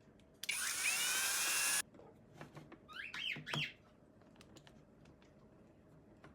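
A small electric motor runs for about a second and a half with a whine that rises as it speeds up, then cuts off abruptly. A few quick high falling chirps follow about a second later.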